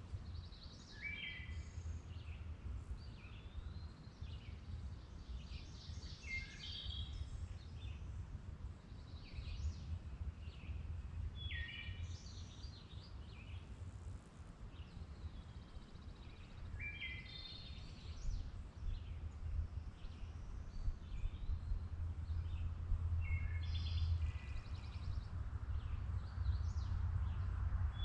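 Songbirds singing outdoors: short chirping phrases recur every few seconds. Under them runs a steady low rumble.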